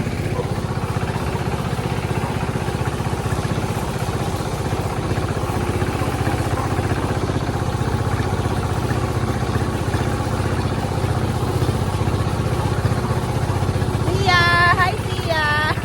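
Hand tractor engine running steadily with an even firing beat. Two short, high calls are heard near the end.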